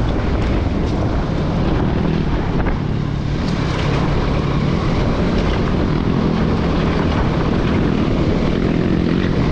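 Off-road motorcycle engine running steadily while riding along a trail.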